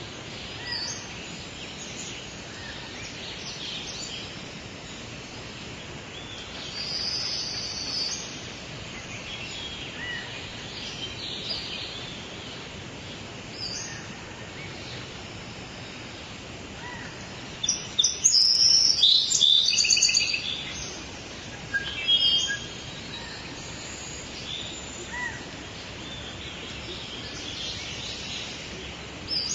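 Several songbirds chirping and singing over a steady hiss of outdoor ambience, with a burst of loud, rapid calls about two-thirds of the way through.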